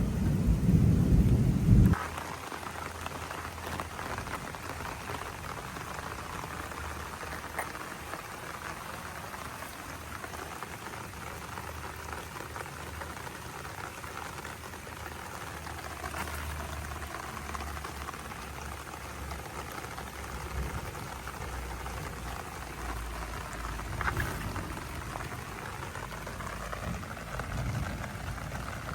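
Heavy rain falling steadily. It opens with about two seconds of loud low rumbling that cuts off suddenly.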